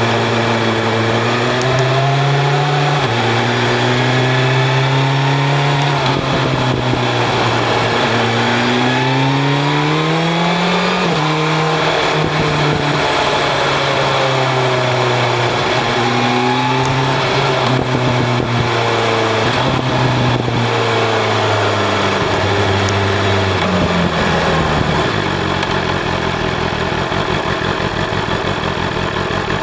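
BMW S1000 RR's inline-four engine through an Akrapovic exhaust, pulling up through the revs under acceleration with a sharp drop in pitch at a gear change about a third of the way in. It then winds down slowly as the bike slows and settles low near the end, with wind rush throughout.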